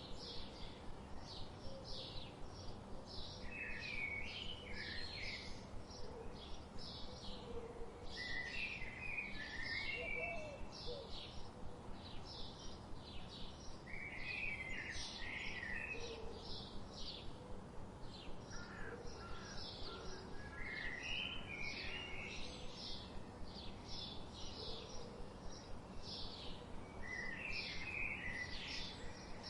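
Birds chirping: a steady run of short, high chirps a few times a second, with a lower twittering phrase breaking in every five seconds or so.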